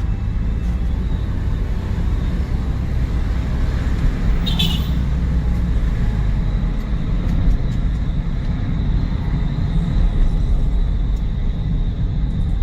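Car driving uphill, its engine and road noise a steady low rumble, with a brief high chirp about four and a half seconds in.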